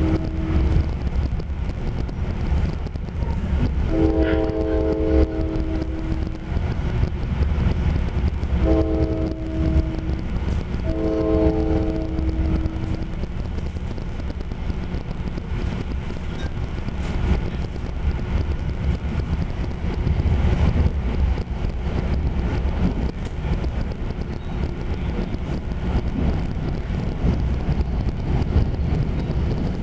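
Passenger train running along the rails, a steady low rumble heard from inside the car. In the first half a train horn sounds four blasts, long, long, short, long: the standard warning pattern.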